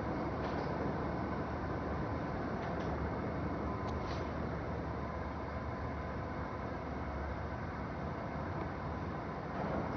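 Local train running, a steady rumble with a faint steady whine and a few brief high squeaks about four seconds in.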